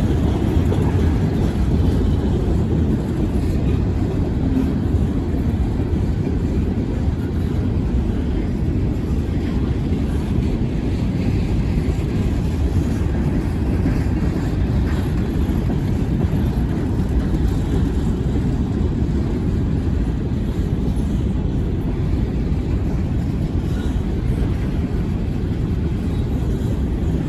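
Freight train rolling past: a steady low rumble that holds level throughout.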